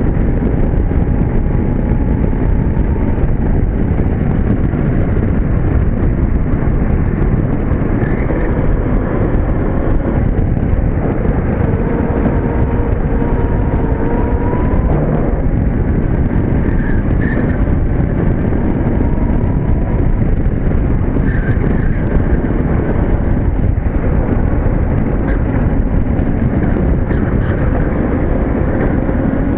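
An electric go-kart running at speed, heard on board: a steady rush of wind and rolling rumble, with a faint whine from the electric drive that rises and falls with speed. There is no engine note.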